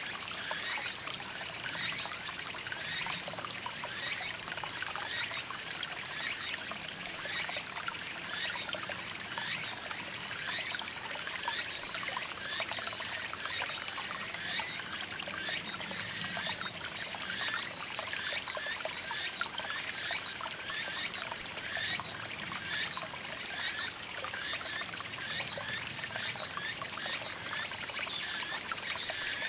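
Small mountain stream trickling and babbling over rocks, a steady continuous splashing and gurgling, with a steady high-pitched tone running above it.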